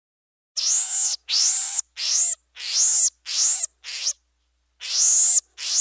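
A bird giving a run of harsh, rasping calls, about eight in quick succession, with a short pause before the last two.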